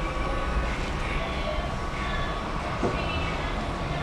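Steady background rumble and noise with faint, steady, high ringing tones, and a brief sharper sound about three seconds in.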